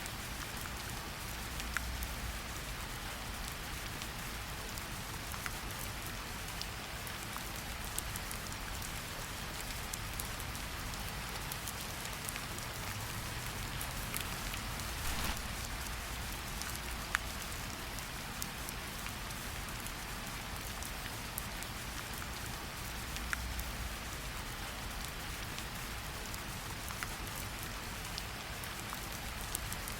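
Steady rain falling in a forest: an even hiss of rainfall with scattered louder individual drops.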